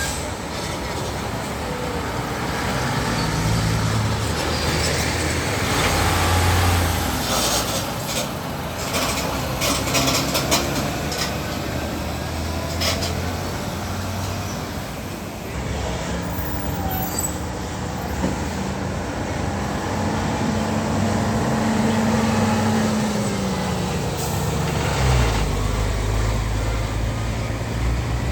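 Heavy diesel trucks running past on a road, their engine notes rising and falling as they go by, with traffic noise underneath. A run of short, sharp sounds comes about eight to eleven seconds in.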